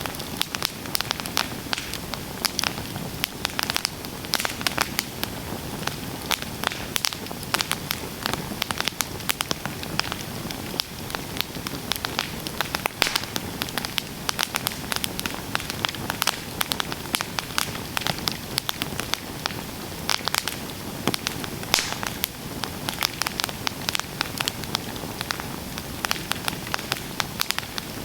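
Campfire burning, with a steady hiss and many sharp, irregular crackles and pops of burning wood.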